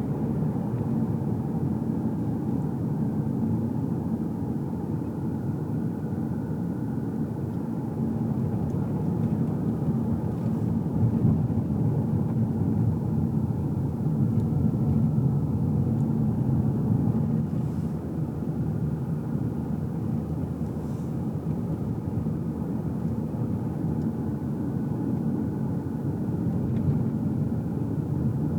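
Steady engine and road noise inside the cabin of a moving car: a low rumble of engine and tyres. It grows a little louder about a third of the way in, then eases again.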